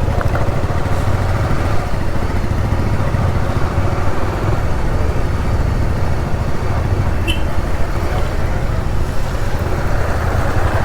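Motorcycle riding noise on an action camera: steady engine and wind rumble. A brief high beep sounds about seven seconds in.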